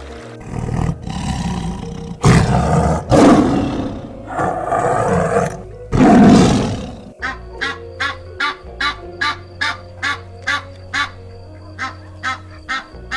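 A large animal roaring or growling loudly several times, over background music; in the second half the roars stop and a rhythmic music beat of short ticks, about two or three a second, carries on.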